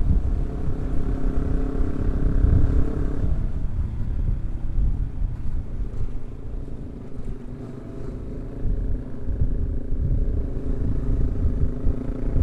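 Yamaha R15 V3 motorcycle's single-cylinder engine running on the move over a constant low rumble. The engine note is steady for about three seconds, fades out through the middle, and comes back in the last few seconds.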